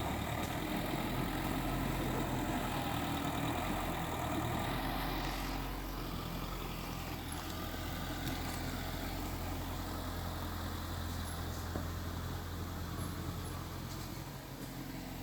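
Heavy diesel engine of earthmoving machinery running steadily, with a deep even hum and a noisier, busier layer that eases off about five or six seconds in.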